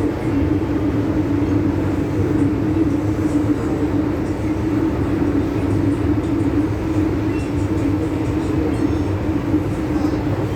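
MTR M-Train electric multiple unit running steadily between stations, heard from inside the carriage: a continuous rumble of wheels on rail with a steady drone that neither rises nor falls.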